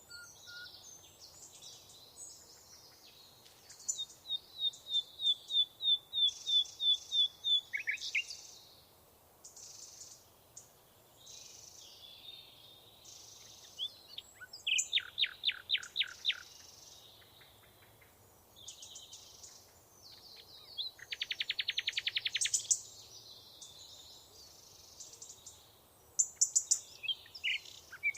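Several songbirds singing together. Among them are a series of evenly repeated high notes, a quick run of falling notes, and a fast rattling trill, over softer twittering from other birds.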